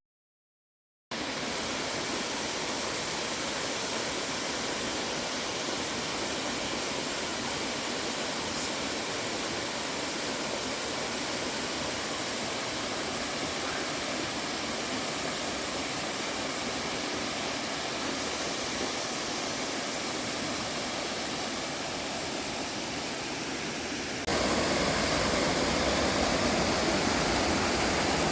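A waterfall's falling water rushing steadily, after about a second of silence. It turns suddenly louder about four seconds before the end.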